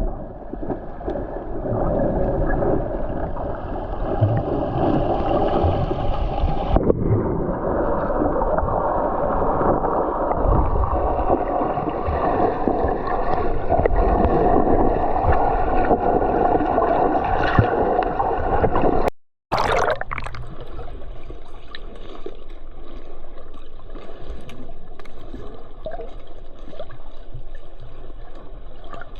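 Stream water gurgling and sloshing continuously, muffled, with most of the sound low in pitch. Near two-thirds of the way through it cuts out for a moment and resumes thinner.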